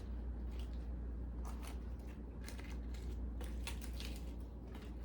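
Crisp romaine lettuce leaves being handled and laid on sandwiches: a few scattered short crackles and rustles over a steady low hum.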